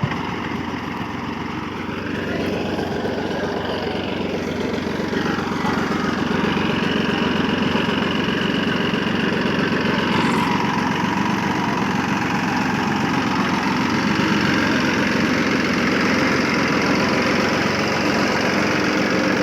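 Massey Ferguson 9500 Smart 58HP tractor's diesel engine running steadily, growing louder over the first few seconds and then holding steady.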